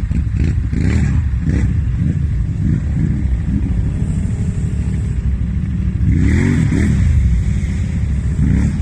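Off-road vehicle engine running loudly, revving up about six seconds in.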